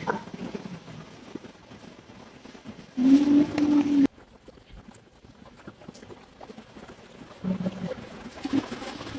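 A dove cooing: a few low, held coos, the loudest about three seconds in and a shorter one near the end.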